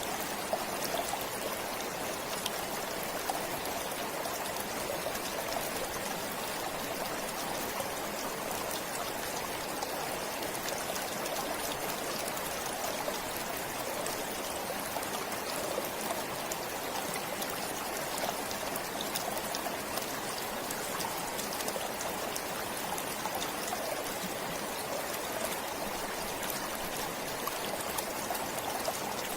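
Forest stream flowing steadily over rocks, a constant rush of water with fine splashing and trickling.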